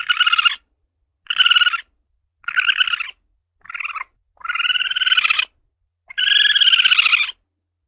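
Asian palm civet (luwak) calling: six calls in a row, each half a second to a second long, the last two the longest.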